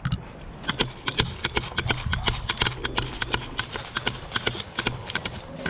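Running footsteps on the ground with gear rattling: a quick, uneven patter of sharp steps and knocks that starts about a second in and keeps going until near the end.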